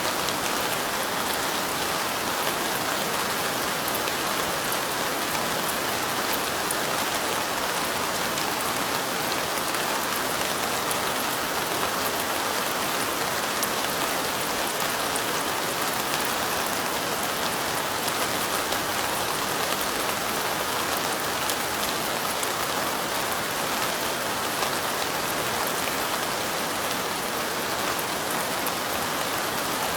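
Steady light rain, the drops falling on window glass in a fine, even hiss with no lulls or gusts.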